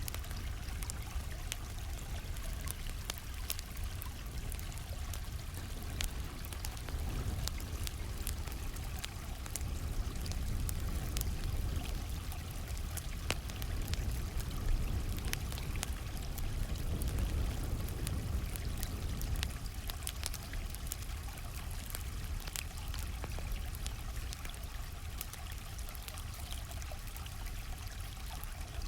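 A steady rush of flowing stream water, with the sharp, irregular pops and crackles of a campfire scattered throughout.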